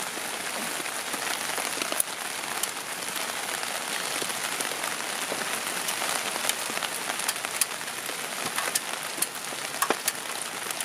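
Steady rain falling, an even hiss with many scattered sharper drop hits.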